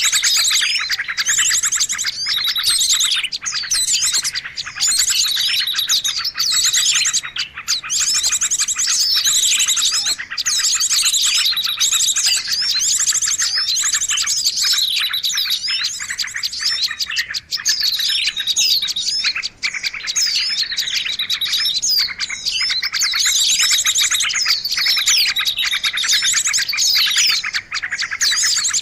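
A dense, noisy chorus of many small birds chirping and twittering at once, with rapid trills overlapping without a break: a bird-lure (pikat) recording meant to draw in birds of all kinds.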